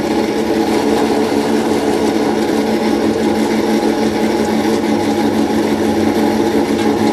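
Motor-driven workshop machine running at a steady speed, giving a constant, even hum.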